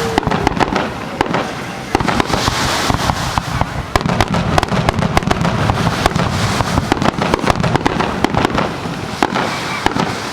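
Fireworks going off: a dense, irregular run of sharp bangs and crackles with no let-up.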